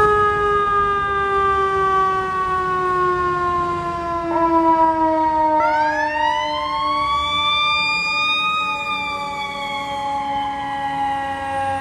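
Fire apparatus sirens wailing while responding code 3. One siren winds up sharply, then slowly falls in pitch; a second rises about halfway through, peaks, and falls away again, overlapping the first.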